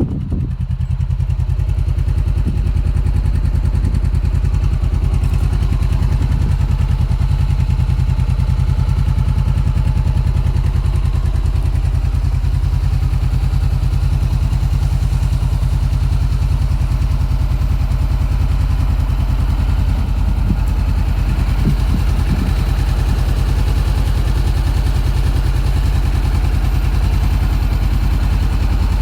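2018 Honda CB500X's parallel-twin engine idling steadily through a Black Widow aftermarket exhaust.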